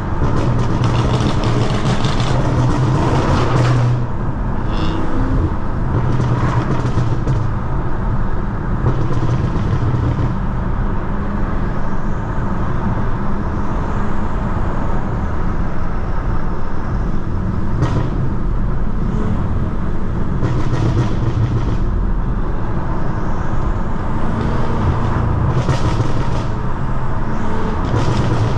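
Stage 2-tuned BMW F90 M5's twin-turbo V8 running while driving, over tyre and road noise. The engine note swells and eases several times, loudest and fullest in the first few seconds.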